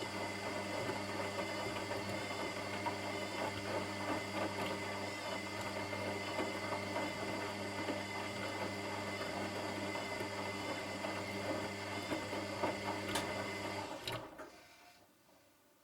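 Washing machine running with a steady motor hum over a busy mechanical whir; about fourteen seconds in the motor stops and the sound dies away within a second or two.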